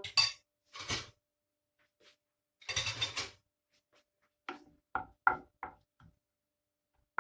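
Kitchen utensil sounds as grated tomato sauce is added to the tagine: a spoon scraping a dish twice, then a longer scrape about three seconds in, then a quick run of about six light knocks, as if the spoon is tapped against the dish's rim.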